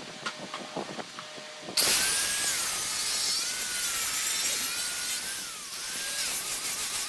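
A few faint taps, then a power tool starts suddenly about two seconds in and works wood, its motor whine dipping and rising with the load.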